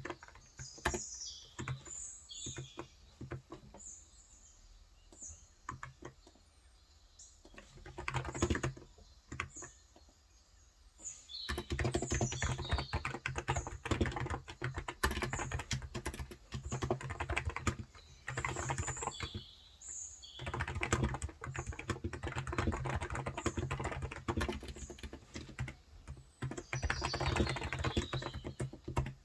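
Typing on a Cox Endeavor 35 g electrostatic-capacitive (Topre-style) tenkeyless keyboard: scattered keystrokes for the first ten seconds or so, then steady fast typing. Birds chirp briefly now and then.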